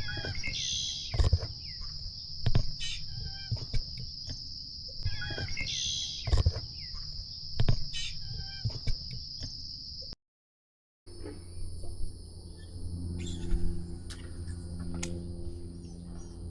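A steady, high-pitched insect chorus with birds calling over it. After a sudden cut, a steady low motor hum takes over.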